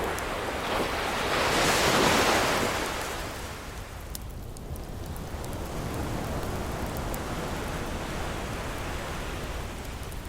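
Ocean surf: a wave swells and breaks about two seconds in, then washes out into a steady hiss of water. Faint crackles from a wood fire tick over it.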